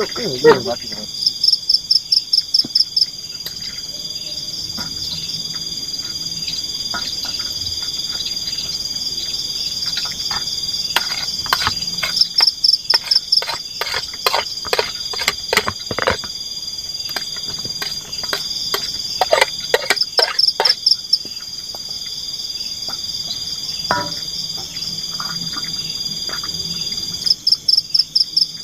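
Tropical forest insects such as crickets or katydids calling at night: a steady high-pitched drone with short bursts of rapid pulsed chirps every several seconds. Irregular clicks and knocks come in clusters around the middle.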